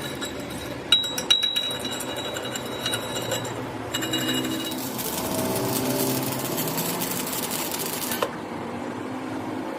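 Metalworking on steel: several sharp metal clinks with a ringing tone about a second in, then about three seconds of a dense, rapid crackling machine noise that stops suddenly.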